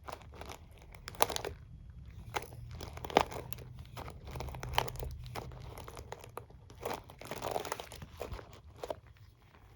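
Hairbrush and comb handled close to the microphone: irregular taps, scratches and rustles, with a few sharper clicks.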